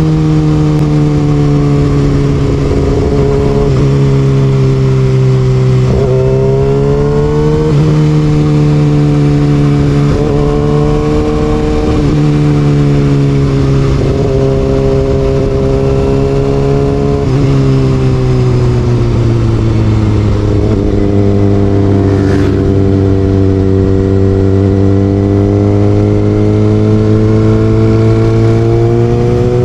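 Kawasaki Ninja ZX6R inline-four sport bike with an Austin Racing aftermarket exhaust, ridden at speed. The engine note climbs and drops sharply several times, then falls slowly and climbs again near the end.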